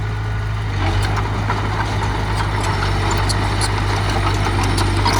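Heavy earthmoving machine's engine running steadily at a low, even pitch, with scattered light clicks and clanks over it.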